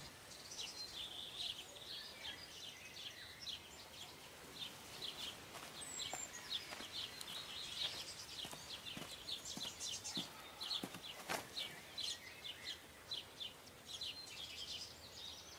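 Small birds chirping in quick, repeated short notes over a faint outdoor hiss, with a few soft ticks in the middle.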